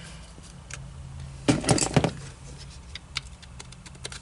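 A short burst of clinking and clattering from small hard parts being handled, about a second and a half in, then scattered light clicks over a steady low hum.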